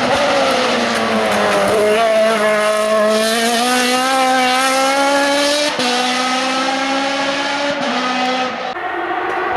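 Racing car engine under hard acceleration on a hill climb: the engine note dips, then climbs steadily for several seconds, with gear changes breaking the pitch about two-thirds of the way through and again near the end.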